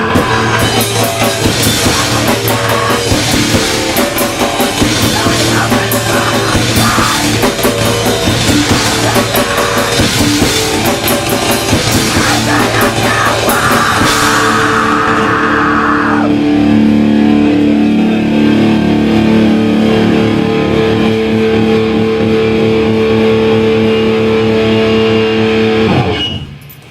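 Live hardcore band playing loud distorted electric guitars and drum kit. About halfway through the drums drop out and held guitar notes ring on, then the song cuts off shortly before the end.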